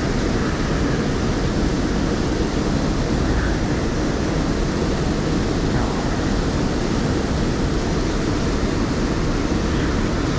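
Steady rushing noise of fast-flowing river water over rapids, an even, unbroken roar with no distinct events.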